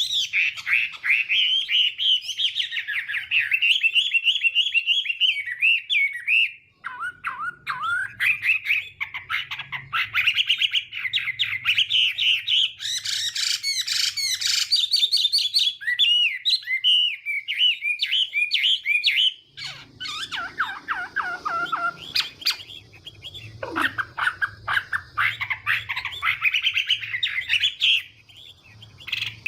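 Chinese hwamei (hoạ mi) singing a long, varied song of fast whistled phrases and trills, with short pauses.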